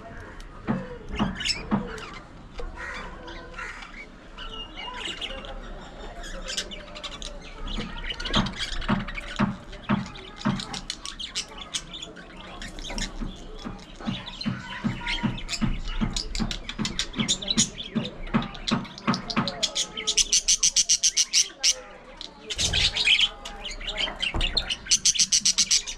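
A flock of budgerigars chattering and squawking. Short chirps and clicks run on without a break, with two spells of fast, high-pitched rattling chatter in the second half.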